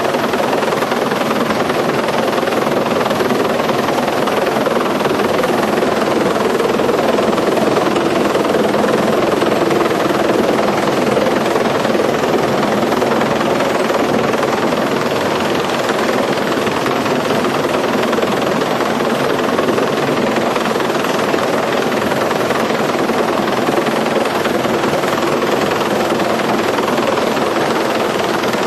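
Helicopter engine and rotors running steadily in flight, heard from inside the cabin as a constant, loud drone that does not change.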